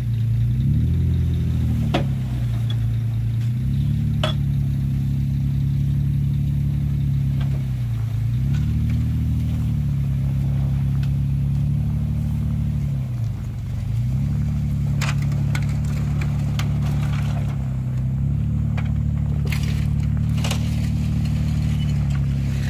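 Vehicle engine running steadily, its revs dropping and rising again a few times. Sharp clicks and crunches come in the second half.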